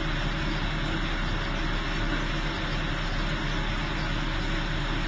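Steady low rumble of a car engine idling, with a constant hiss over it.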